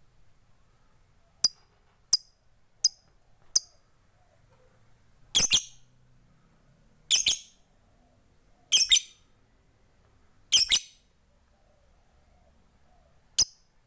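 Lovebird calling in sharp, high-pitched bursts: four quick single chirps, then four longer two-part shrieks about a second and a half to two seconds apart, and one more chirp near the end.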